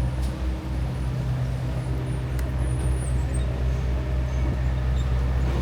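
City street traffic: a steady low engine rumble from road vehicles, with faint high chirps above it.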